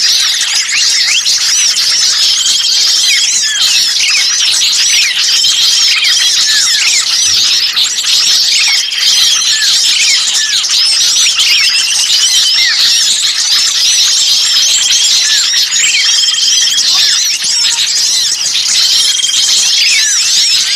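Dense, unbroken chorus of many small birds chirping and squeaking excitedly, with a short level whistle recurring every couple of seconds: a 'ribut kejepit' bird-lure recording, the agitated calls of small birds as if one is trapped, played to draw other birds in.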